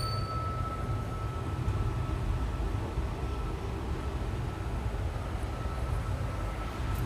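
Passenger train running along the track, heard from on board: a steady low rumble with a faint thin whine above it that fades midway and returns near the end.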